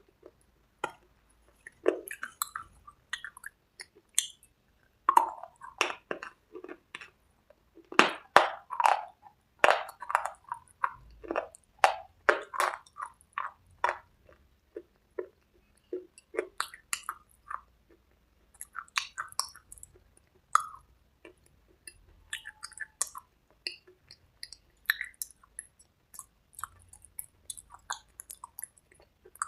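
A person biting and chewing crunchy cubes with red slate paste: irregular sharp crunches and crackles, thickest between about 5 and 13 seconds in, then sparser and softer.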